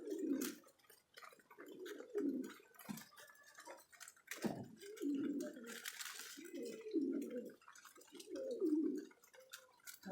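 Domestic pigeons cooing, several low wavering coos one after another, with scattered sharp clicks and taps among them.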